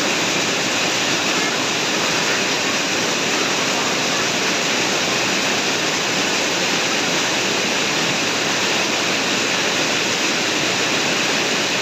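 Heavy rain pouring down in a rainstorm: a loud, steady hiss of downpour that holds even throughout, with no breaks or gusts.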